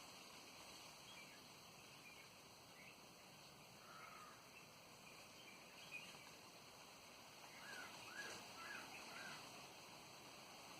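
Faint wild birds calling: scattered short chirps, then a run of four quick calls a little past the middle, over a steady hiss of wind.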